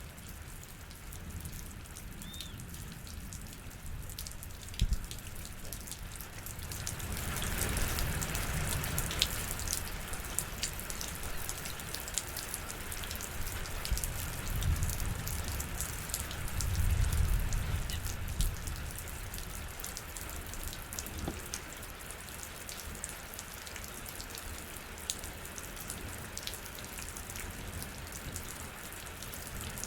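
Rain falling, with many separate drops heard striking a surface. It grows heavier about seven seconds in, with a sharp single knock just before.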